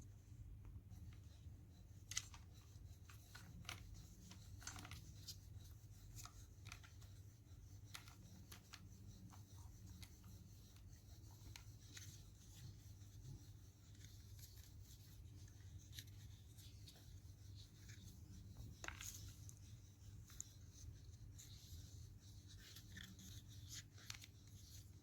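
Faint handling noises: scattered small clicks and ticks with a little rustling, over a steady low hum.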